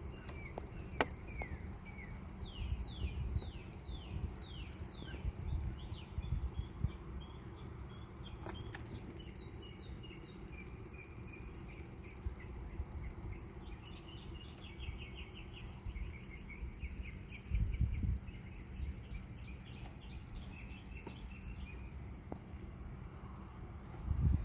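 Small birds singing: a run of quick downward-sweeping chirps a few seconds in, then rapid trilled phrases in the second half. Under them a low rumble with a few louder bumps on the microphone, the loudest near the end.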